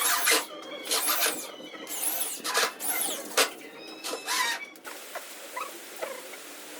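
Small power tool run in short bursts, its high whine rising and falling with each burst, about once a second; it stops about five seconds in.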